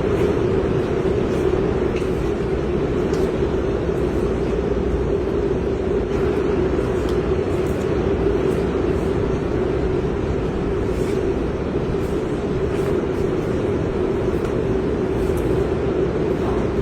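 A motor vehicle running at a steady, unchanging level, with a constant hum.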